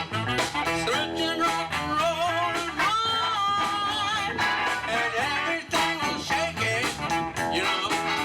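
Rock band music: electric guitar over a steady drum beat, with a bending, wavering guitar line about three seconds in and some singing.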